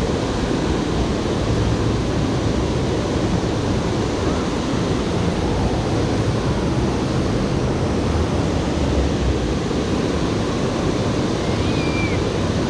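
Steady, even rush of water pouring over a low dam's spillway close by.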